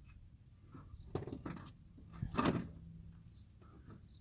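A few knocks and scrapes of metal as a new front strut is lifted and a strut bolt is worked into its mounting hole, the loudest clunk about halfway through.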